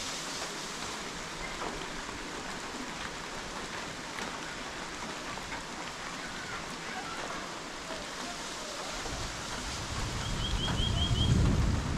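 Steady rushing hiss of wind and weather before rain, with a few scattered bird chirps and a short quick trill of about six notes near the end. A low rumble builds over the last few seconds as the loudness rises.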